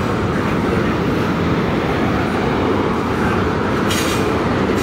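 Freight cars of a long freight train rolling past, with a steady rumble and rattle of steel wheels on the rails. A brief high screech sounds about four seconds in.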